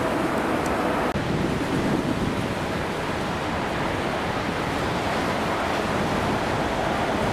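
Steady rushing noise of a jet airliner's engines, even and unbroken, with no separate events.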